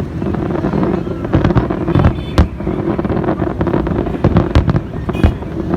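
Fireworks display: a dense run of bursting shells and crackle over a steady low rumble, with louder bangs about two and a half seconds in and again near the end.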